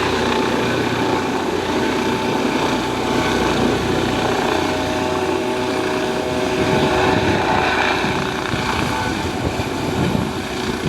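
Helicopter in flight: rotor and engine running steadily, with a few steady whining tones over the noise.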